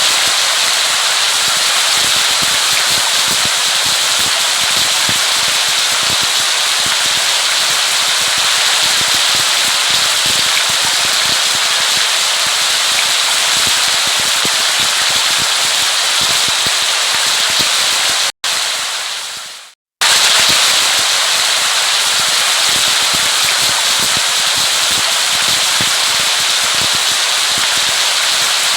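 Steady heavy rain, a dense crackling patter of drops on a surface. About two-thirds of the way through it cuts out, fades for a second to silence, then comes back at full level.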